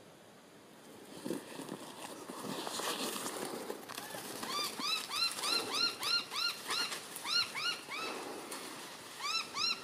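A bird calling over and over, a quick run of short rising-and-falling notes about three a second, starting about halfway through. Before it there is a stretch of rustling noise.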